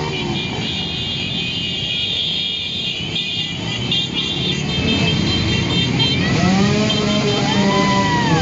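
Several motorcycle engines running and revving as the bikes ride past. Near the end one engine revs up and drops back down.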